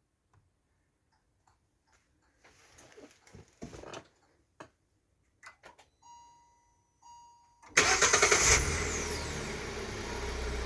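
A few faint clicks and two short beeps, then a Hyundai Solaris petrol engine is remote-started by its GSM alarm with autostart. It catches suddenly about three-quarters of the way through, flares briefly and settles to a steady idle.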